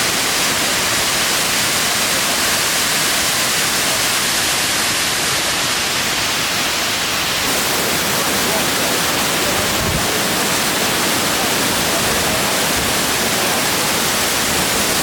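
Banyumala twin waterfalls: a steady, loud rush of falling water. About halfway through it changes abruptly to a fuller sound, the falls at a much heavier flow.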